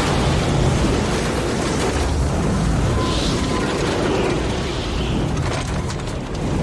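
Strong tornado-force wind blowing in gusts, a continuous heavy roar with a deep low rumble. A few faint clicks come through near the end.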